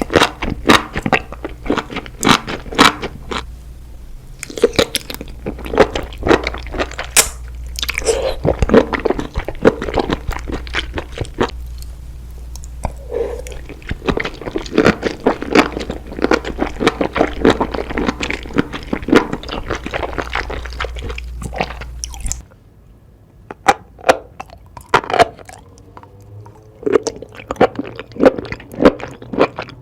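Close-miked ASMR eating: crunchy bites and chewing, a rapid run of sharp crackling crunches. A low background hum under the first two-thirds stops abruptly, leaving the crunching over a quieter background.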